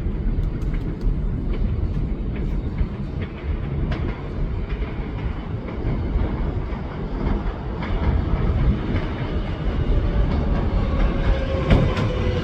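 Subway train of R188 cars pulling into an elevated station: a steady rumble with clicking of the wheels over rail joints. Near the end a whine falls in pitch as the train slows.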